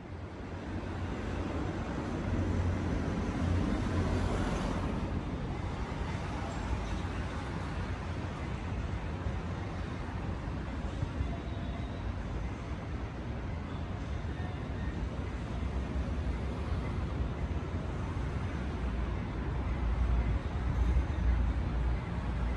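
Road traffic noise: a steady low rumble with hiss, fading in over the first couple of seconds.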